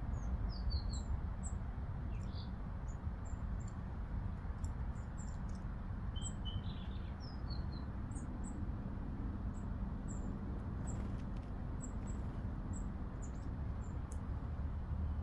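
Small garden songbirds calling: short, very high, thin chirps repeated every second or so, with a few quick falling notes near the start and about halfway through. A steady low rumble runs underneath.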